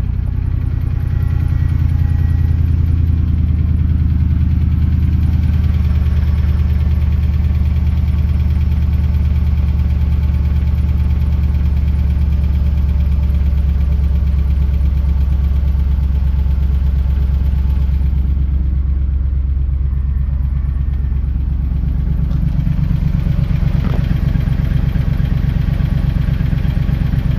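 Chrysler 6.1-litre Hemi V8 running steadily, with the ticking noise that the engine is being recorded to show. Its sound changes somewhat about 22 seconds in.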